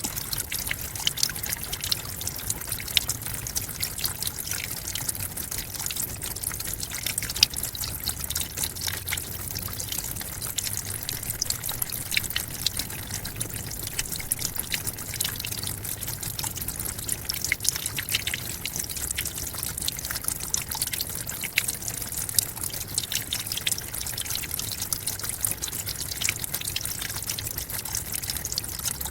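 Forest waterfall: water splashing and trickling steadily onto rocks, with many small crisp splashes.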